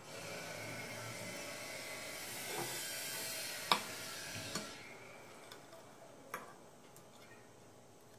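A steady hiss with a few sharp clicks and knocks, cutting off suddenly about two-thirds of the way in, followed by a few faint ticks.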